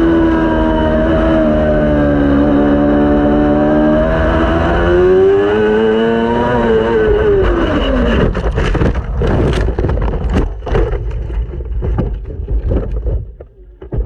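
A 600-class race motorcycle's engine running at a steady speed, its note dipping and rising slightly, then falling away sharply about seven seconds in as the bike slows. An irregular, choppy sound follows until it drops off near the end.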